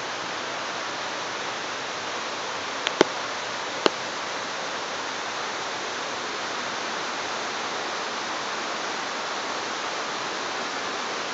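Running water from a stream or waterfall, a steady rushing. Three sharp clicks come close together about three to four seconds in.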